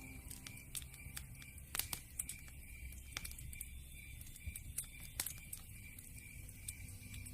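Wood fire crackling, with irregular sharp pops and snaps from the burning logs, two of them louder than the rest. Soft low music notes come back in near the end.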